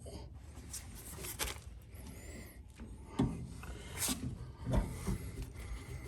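Fuel-tank fitting being handled and worked in a tight space: light rubbing and scraping with a few short knocks, the strongest of them in the second half.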